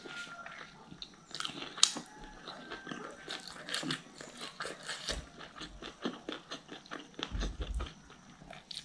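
Close-miked eating: biting and chewing on chicken on the bone, with wet mouth smacks and many small crunching clicks, the sharpest about two seconds in.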